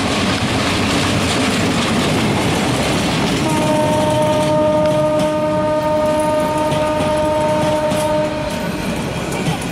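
Diesel-hauled passenger train passing close by, its coaches rumbling and clattering over the rails. A train horn sounds one long, steady blast from about three and a half seconds in until near the end.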